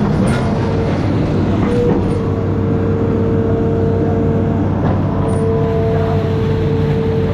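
Amphibious excavator's diesel engine running steadily under work, with a steady higher whine over the low hum that drops out briefly about five seconds in, and a few faint knocks.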